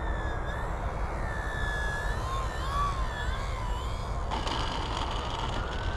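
Electric brushless motor and propeller of an FMS Cessna 182 RC plane in flight: a whine that wavers up and down in pitch, then rises steadily near the end. A steady low rumble of wind on the microphone runs underneath.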